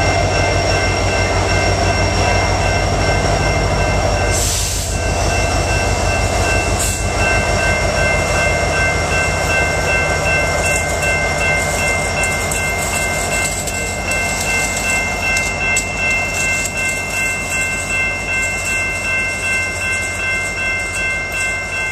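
Train cars rolling past at low speed, the wheels beating a steady rhythm over the rail joints, with a steady high ringing tone over it throughout. There are brief hisses about four and a half and seven seconds in.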